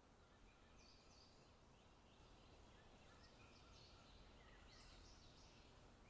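Faint forest ambience with small birds calling, short high chirps and trills scattered through, over a faint steady background noise.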